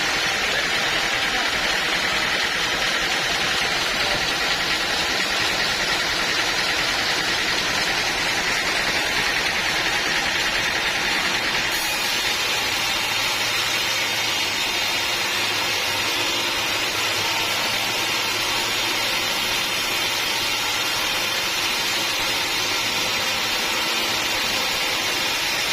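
Sawmill machinery running steadily, with a continuous mechanical drone and hiss; about halfway through the sound changes, with more hiss at the top and a low hum coming in.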